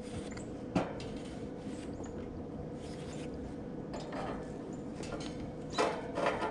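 Handling noises from a condenser fan motor being lined up on its mount: one sharp knock a little under a second in and a cluster of scraping knocks near the end, over a steady faint hum.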